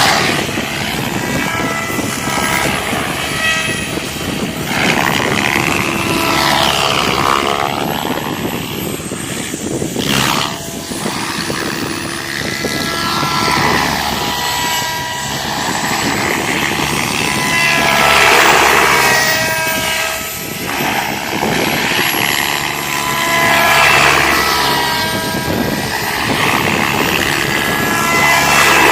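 Electric SAB Goblin 700 RC helicopter in flight: motor whine and main-rotor blade noise, swelling and fading several times as the pitch and loading change. A single sharp click comes about ten seconds in.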